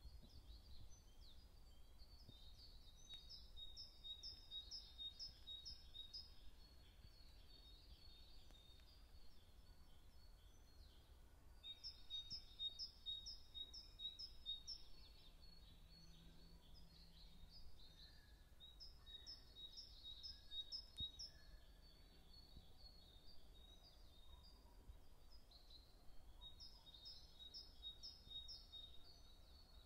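Faint songbird song: about four phrases of quick, high, repeated chirps, each lasting a few seconds, over a low steady background noise.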